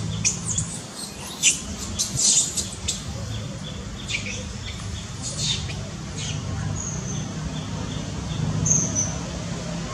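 Birds chirping: quick, high squeaks and chirps come thick for the first few seconds, then thin out, with two short high whistles near the end. Under them runs a low, steady hum.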